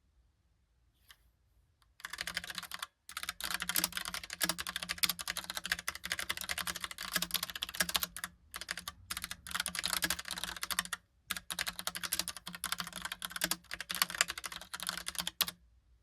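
Typing on a Logicool Pop Keys typewriter-style mechanical keyboard: a fast, dense run of key clicks that starts about two seconds in, with a few brief pauses, and stops shortly before the end.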